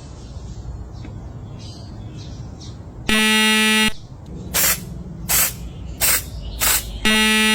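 An electric vehicle horn sounding two buzzy honks of just under a second each, about four seconds apart, with four short hissing bursts between them.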